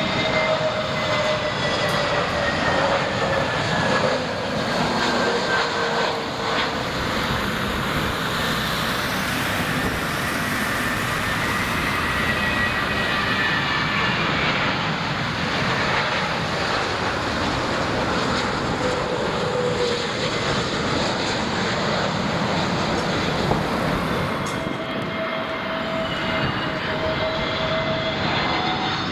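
Jet airliner engines running, a steady loud rush with whining tones that drift slowly up and down in pitch.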